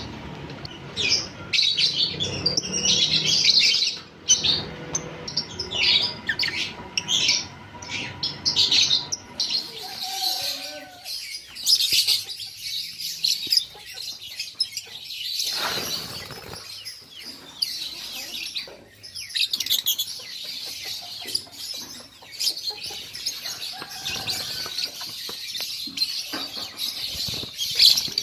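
Lovebirds chirping and chattering in a busy, continuous run of short high-pitched calls.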